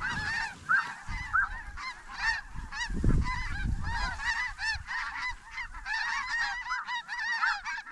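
A large flock of snow geese calling overhead: a dense, continuous chorus of many overlapping high, yelping honks. A low rumble of wind or handling noise sounds about three seconds in.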